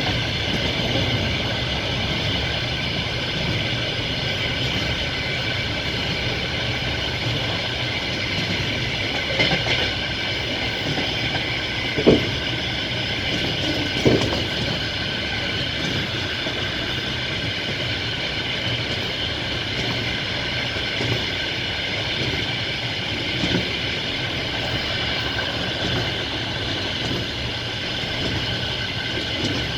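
Passenger train rolling along the track: a steady rumble of wheels on rails with a constant high ringing tone. A few sharp wheel knocks over rail joints, the loudest about a third of the way through.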